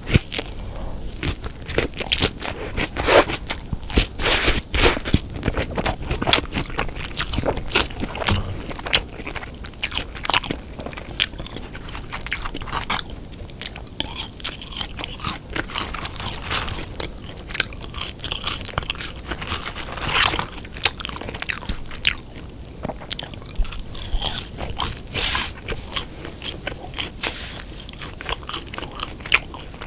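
Close-miked eating sounds: biting into and chewing a Lotteria Folder Burger with beef patty, with dense crunching and sharp mouth clicks throughout and a few louder bites.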